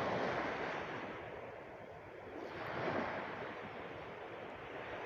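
Sea waves washing in as surf, one surge at the start and a second about three seconds in.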